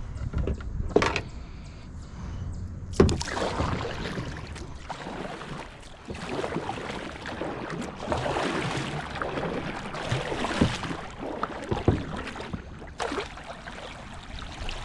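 Water splashing and lapping against a kayak, with a few sharp knocks on the hull near the start and about three seconds in.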